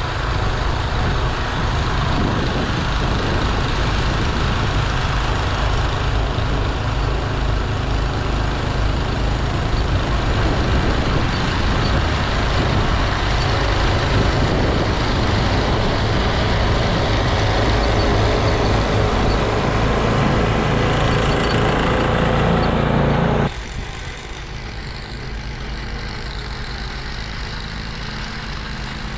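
Toro 826LE gas snowblower running steadily while throwing snow. About three-quarters of the way through the sound drops abruptly to a quieter, duller steady run.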